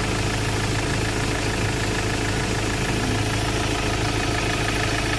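Ford Ranger XLT engine idling steadily, running again after a crank-no-start fault traced to its engine computer (ECU), which has been replaced and programmed.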